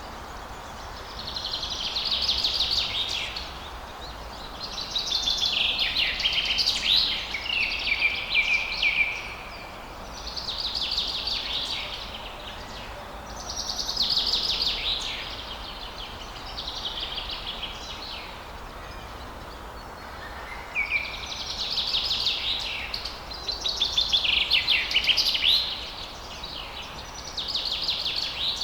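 Songbirds singing in repeated quick, trilling phrases of one to three seconds, with short pauses between them, over a steady faint background noise.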